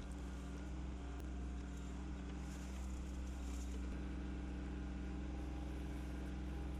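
Kubota L3200 tractor's diesel engine running at a steady speed, with faint light rattles now and then.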